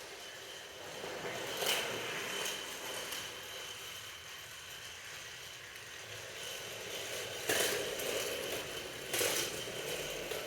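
Toy train set: trains rattling and clattering along plastic track, with a faint steady high whine and a few sharp knocks, about two seconds in and twice more near the end.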